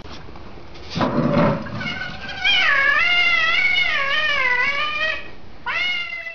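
A cat yowling: a long, wavering meow lasting about three seconds, then a shorter falling meow near the end that cuts off suddenly. A brief low, rough sound comes about a second in.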